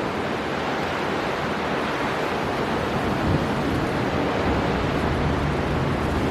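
Storm wind blowing hard over crashing sea surf, with gusts buffeting the microphone; the low rumble grows heavier about halfway through.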